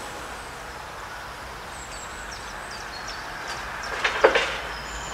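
Small birds chirping over a steady rushing background, with a brief clatter of knocks about four seconds in.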